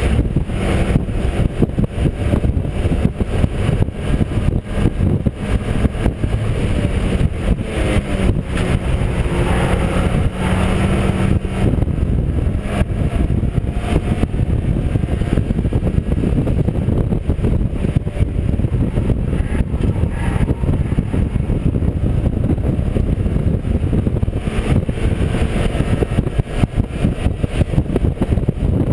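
Mazda MX-5 race car's four-cylinder engine running hard at racing speed, heard onboard with road and wind noise.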